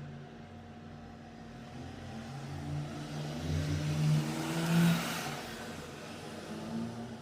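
A motor vehicle passing by, its engine note rising as the sound swells to a peak about five seconds in, then fading.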